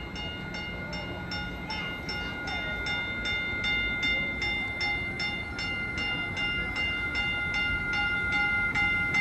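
A bell ringing rapidly, about three strikes a second, as a Caltrain commuter train pulls into the station, the train's running noise slowly growing louder.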